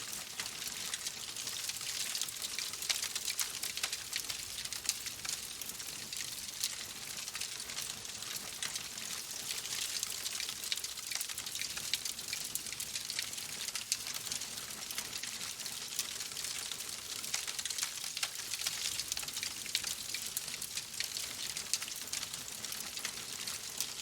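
Wood fire crackling in a fireplace: a dense, steady run of small pops and snaps over a soft hiss.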